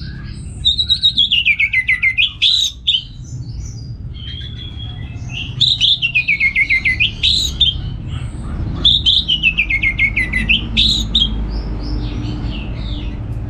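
Orange-headed thrush singing: three loud phrases, each a quick run of notes sliding down in pitch over about two seconds, with shorter scattered notes between them. A steady low hum runs underneath.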